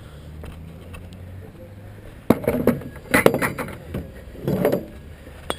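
Low steady hum, then about two seconds in three short bursts of clinking and rattling, like hard objects knocked together, and a single sharp click near the end.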